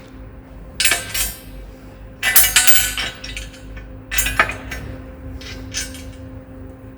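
Steel parts and tools clinking and rattling in four short bursts, about a second, two and a half seconds, four seconds and near six seconds in, as sawmill bed parts are handled and bolted together. A faint steady hum runs underneath.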